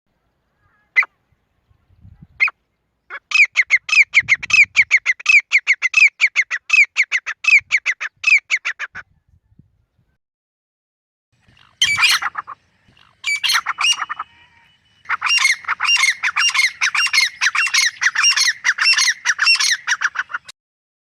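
Grey francolin calling: a couple of single sharp notes, then a long run of rapid, harsh repeated notes, about five a second. After a silent pause of a few seconds come short bursts and a second long run of the same rapid calls.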